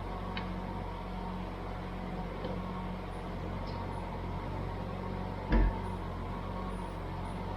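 Small excavator's diesel engine running steadily, with one short loud burst about five and a half seconds in.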